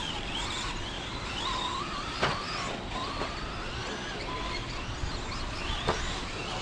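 Several electric RC stadium trucks racing, their motors whining and gliding up and down in pitch as they speed up and slow down on the dirt track. Two sharp knocks come through, one about two seconds in and one near the end.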